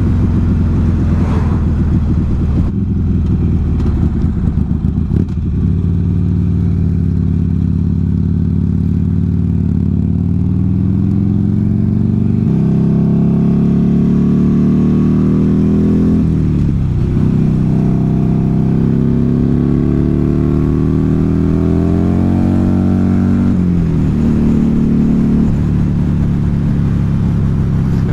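Buell XB9R's air-cooled V-twin engine running under way. The pitch climbs steadily as the bike accelerates, and the revs dip sharply and recover twice, about two-thirds of the way in and again near the end, as gears change.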